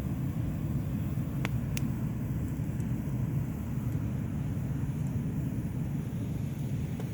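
A few sharp crackling pops from a wood bonfire, about a second and a half in and again just before the end, over a steady low rumble.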